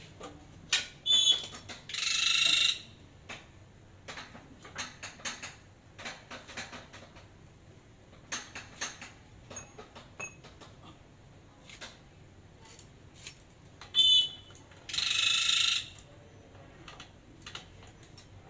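Metal parts clinking and knocking as they are handled during repair of a hand pallet truck's hydraulic pump, with two short, loud, high-pitched bursts of noise, about two seconds in and near the end.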